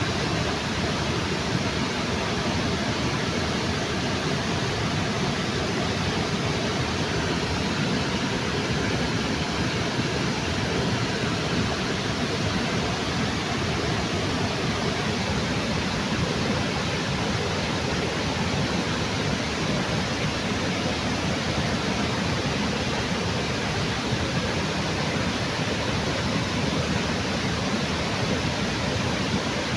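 Waterfall on a river: a steady, even rush of falling water.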